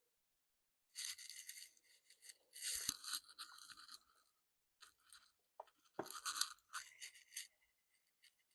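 Scraping and rubbing in irregular bursts, with a couple of dull knocks, as a small motorcycle battery is set into its battery box and its cables handled.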